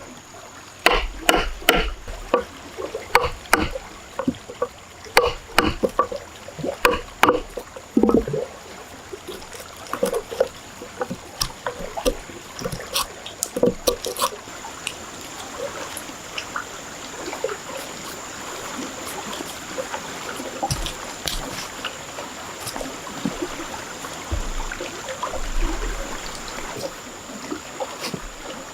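Irregular sharp knocks and clatters, dense in the first half, giving way to a steadier wash of moving water with fewer, fainter knocks. A thin, steady high-pitched tone runs underneath throughout.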